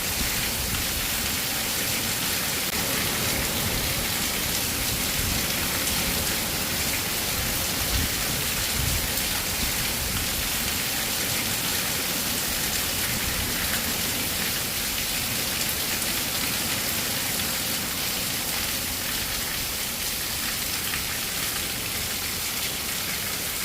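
Steady rain falling on a surface, an even hiss that keeps on without a break.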